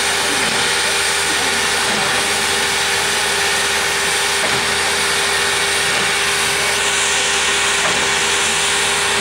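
Er-class steam locomotive standing with steam escaping in a loud, steady hiss, with a steady low hum underneath.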